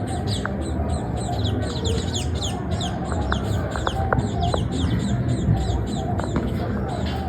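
Birds calling: a steady stream of quick, high, falling chirps, several a second, over a low steady rumble.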